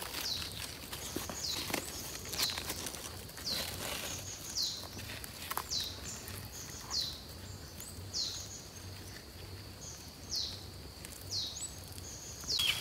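A bird calling over and over, a short high note that slides downward and levels off, repeated about once a second.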